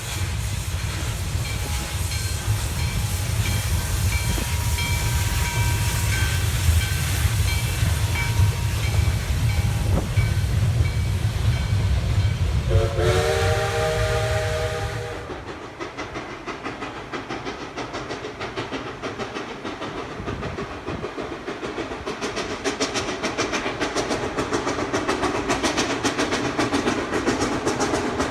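2-8-0 steam locomotive working with a train: heavy rumble and steam hiss, then one steam whistle blast of about two seconds, a chord of several tones, about halfway through. After it the rumble drops away and the clicking of the cars' wheels over the rail joints takes over, growing louder near the end.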